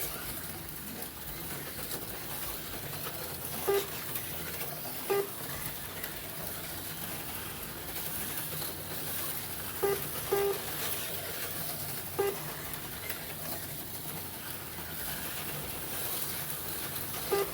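HO slot cars running laps on the track, a steady high whir. About six short mid-pitched tones come at irregular moments over it.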